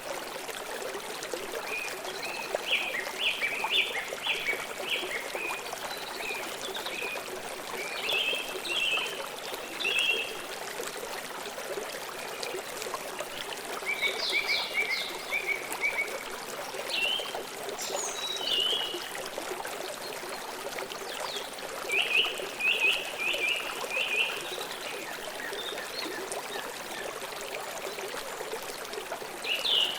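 River water flowing steadily, with short runs of quick, high chirps from birds coming every few seconds.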